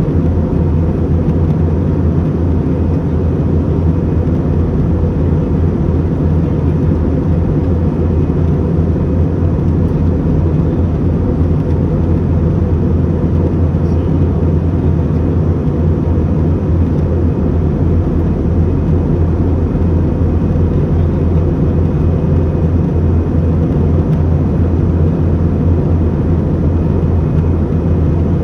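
Airliner cabin noise in flight: a steady, even rush of engine and air noise with a constant low hum, unchanging throughout.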